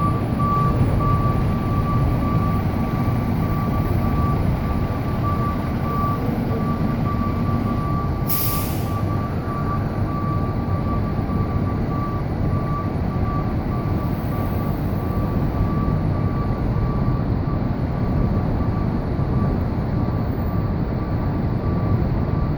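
Fire engine's diesel engine running at idle: a steady low rumble with a thin, steady whine over it, and one short hiss of air about eight seconds in.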